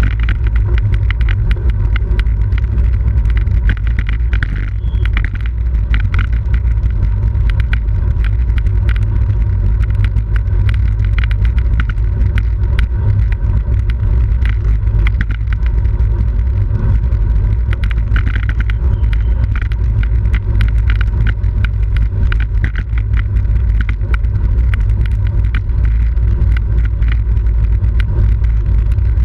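Wind rushing over the microphone of a camera on a bicycle racing at speed: a steady heavy rumble, with road rattle and small clicks from the bike.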